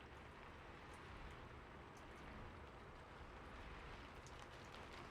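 Faint recorded rain: an even, soft hiss with scattered light drop ticks.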